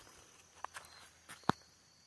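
Footsteps on a forest trail: a few light crunching steps, with one sharper snap about one and a half seconds in, over a faint steady high insect trill.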